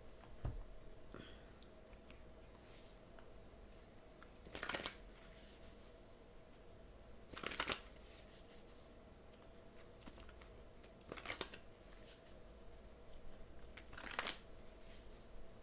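Tarot cards being shuffled in four short bursts about three seconds apart, with a soft knock about half a second in and a faint steady hum underneath.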